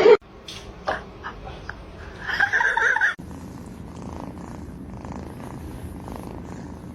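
Domestic cat purring, a steady, even rumble from about three seconds in. Before that come a few clicks and a brief pitched sound.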